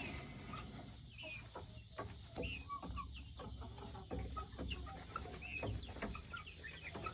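Young chickens peeping and clucking, many short, high, falling calls, over a low rumble and scattered clicks.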